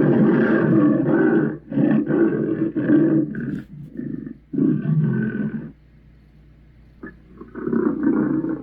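Chernabog monster sound effect: a string of deep, rough roars, four in a row each about a second long, then a brief lull and another roar near the end.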